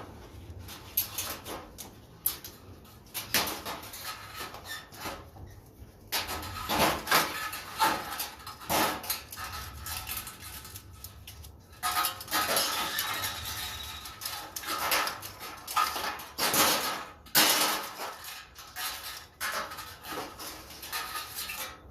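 Sheet-metal fluorescent light fixture parts clanking and rattling as they are taken apart by hand, in irregular knocks with some brief metallic ringing.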